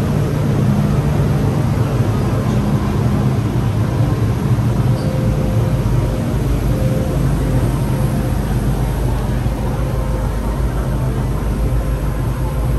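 MTR Disneyland Resort Line M-Train running, heard from inside the carriage: a steady rumble with a low hum and faint steady tones from the traction equipment.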